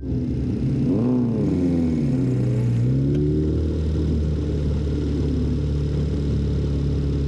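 An engine revving up and down twice, then running at a steady speed.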